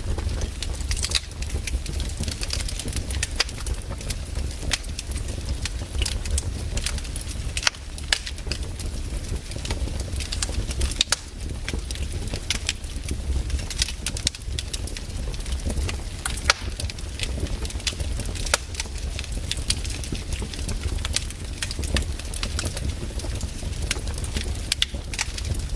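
Campfire burning, with irregular crackles and pops from the wood over a steady low rumble.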